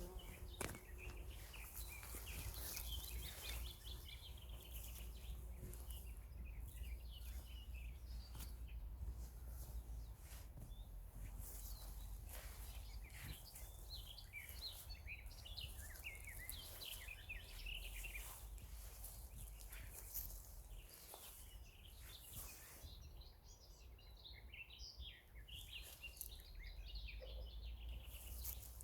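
Small songbirds chirping and singing in quick high twittering phrases that come in several bursts, over a steady low rumble and a few brief clicks.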